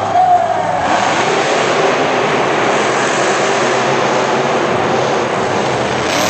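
Loud, steady engine noise of a monster truck running at high revs, coming in about a second in and filling the arena.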